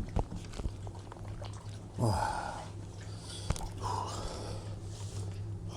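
Two breathy huffs or snorts, about two seconds apart, over a steady low hum, with a few sharp clicks.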